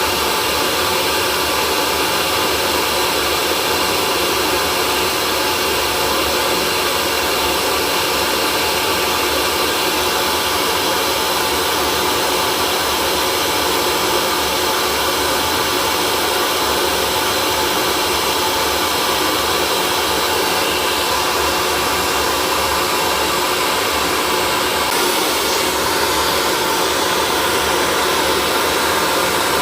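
Hair dryer running steadily, a constant whooshing blower noise with a faint steady motor hum, played as white noise to soothe a colicky baby.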